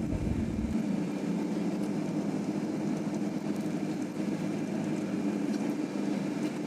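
City bus engine running steadily, heard from inside the cabin, with a deep rumble for about the first second.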